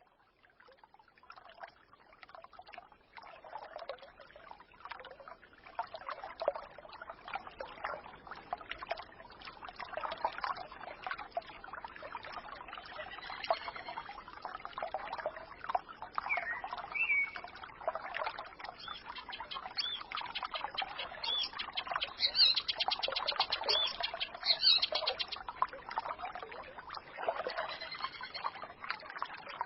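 Small forest stream trickling and gurgling, fading in from near silence over the first few seconds. Small birds chirp over it, with a fast trill of repeated high notes about two-thirds of the way through.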